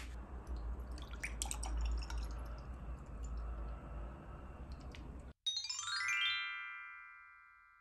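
Light clicks and clatter over a low hum, then a sudden cut to silence and an added sound effect: a quick descending run of bell-like chime notes, about five and a half seconds in, ringing on and fading away.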